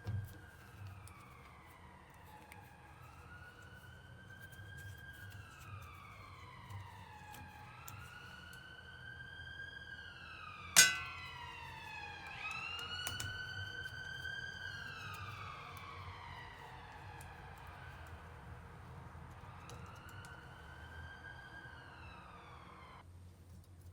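Emergency vehicle sirens wailing, two out of step, each rising and falling in pitch over a few seconds. A single sharp click about eleven seconds in is the loudest sound. The sirens cut off suddenly near the end.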